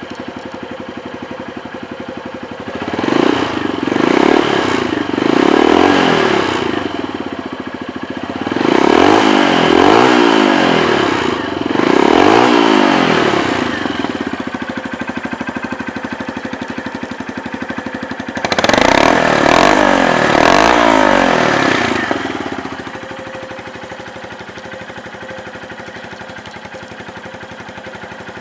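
2013 Honda CBF125's single-cylinder four-stroke engine idling, then revved up and back down in three groups of throttle blips before settling back to a steady idle. The seller describes the engine as in good order.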